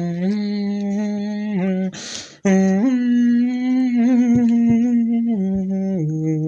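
A person humming a tune in long held notes that step up and down in pitch, with a short breathy hiss about two seconds in.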